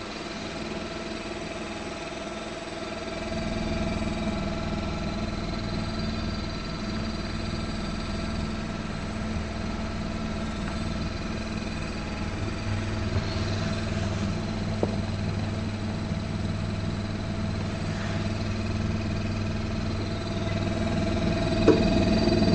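Samsung RB33J3200SS inverter refrigerator running with a steady low hum and a steady high-pitched buzz on top. The hum grows louder about three seconds in and again near the middle. The buzz is an abnormal noise that has been there since the fridge was new.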